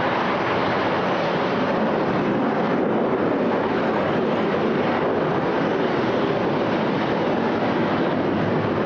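Steady jet aircraft engine noise, an even rushing roar with no rise or fall.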